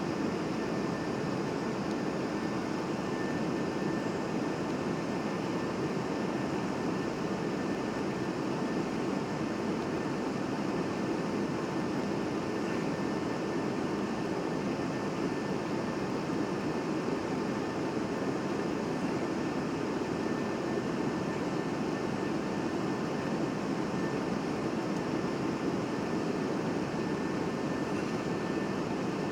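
Steady cabin noise of a Boeing 737-800 in flight on approach: an even rumble of engines and airflow, with a faint steady high whine above it.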